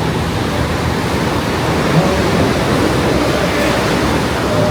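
Ocean surf breaking on a beach as a steady wash of noise, with faint voices of people in the background.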